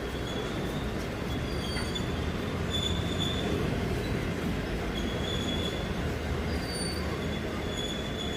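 Wheels of an EP07 electric locomotive and the EP09 locomotive it has in tow, squealing on and off against the rails while shunting. Several short high-pitched squeals at shifting pitches sit over a steady rumble.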